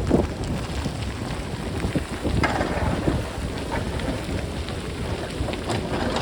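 Gusting wind buffeting the microphone with a heavy rumble, over scattered clattering of rocks and stones rolling down a hillside that a backhoe is cutting. Sharper bursts of clatter come right at the start, about two and a half seconds in and near the end.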